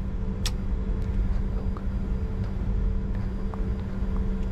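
Cockpit noise of a Bombardier Challenger 605 taxiing with its engines at idle: a steady low rumble with a constant hum. A short click comes about half a second in.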